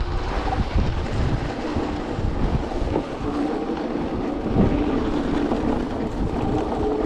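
Wind buffeting the microphone while riding an electric two-wheeler, with a steady low rumble. About three seconds in, a steady whine from the electric motor joins, made of a few tones at once.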